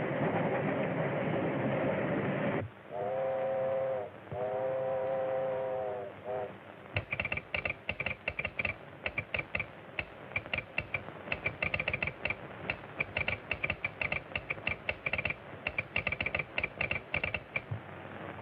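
Steam locomotive running, then its chime whistle blows two long blasts and a short one. After that, rapid, irregular clicking with a high ringing tone carries on almost to the end.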